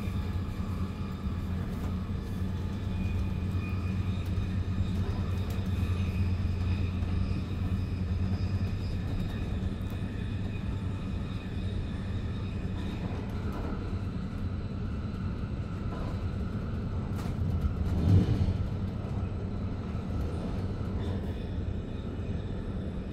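Inside a Re 450 DPZ double-deck commuter train running at speed: a steady low rumble of the running gear on the track, a faint high whine above it, and one short thump toward the end.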